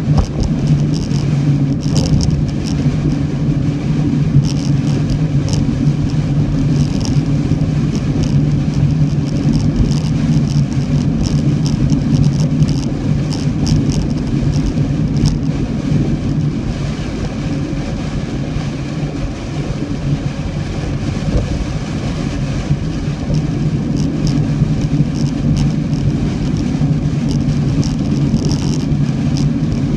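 A car driving, with a steady low engine and road drone and short hissing sounds now and then.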